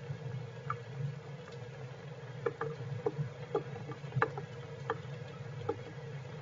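Raindrops pattering and dripping in irregular single ticks, about two or three a second, over a steady low hum.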